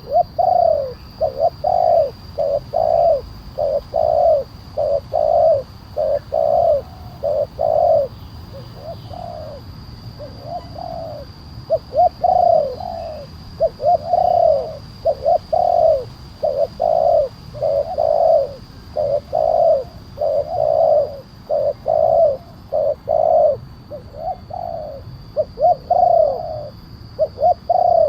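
Spotted dove cooing over and over in a long run of short, deep coos, the big-voiced 'kuk 1' song type, with a few brief pauses between phrases.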